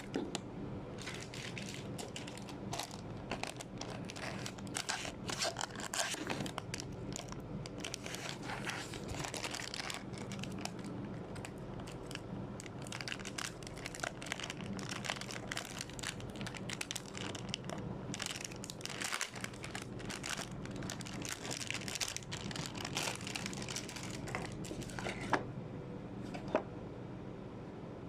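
Packaging crinkling and crackling as it is handled, with many small irregular crackles over a steady low hum; the crackling stops near the end.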